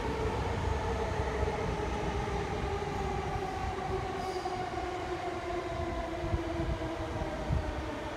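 Electric train running on the line above the embankment: a low rumble with a steady motor whine that slowly falls in pitch.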